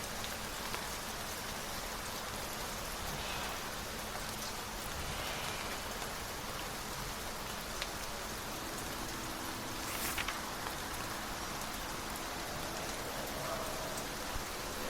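Steady rain falling on a surface, a constant even hiss with a few sharp drop ticks. About halfway through, a faint steady hum with several pitched overtones fades in and slowly grows.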